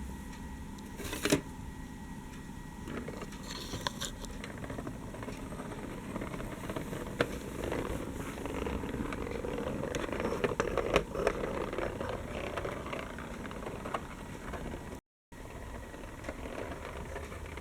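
Remote-controlled toy tractors running: a small electric motor whirring with plastic clicks and rattles. It grows louder about eight seconds in and eases off again before a short break near the end.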